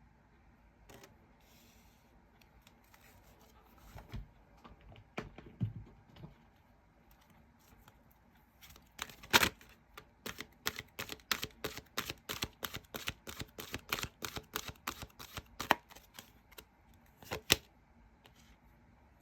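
Tarot cards being handled and shuffled: a few scattered taps, then a quick run of clicks at about five a second for several seconds, and a last pair of taps near the end.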